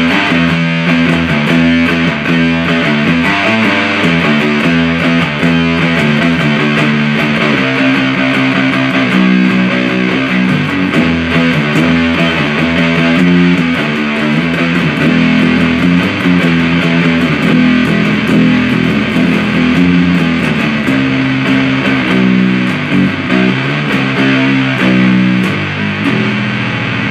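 Electric guitar played through a 77 Fuzz Blender fuzz pedal with the blend knob all the way up: loud, heavily fuzzed riffing with sustained, chugging notes.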